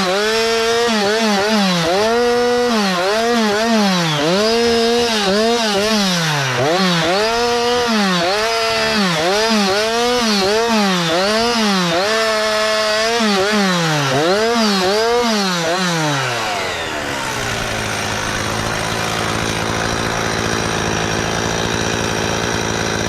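Two-stroke chainsaw engine at high revs, its speed dipping and recovering over and over, about once a second, as the throttle is worked or the chain is loaded. About 16 seconds in it drops to a steady idle.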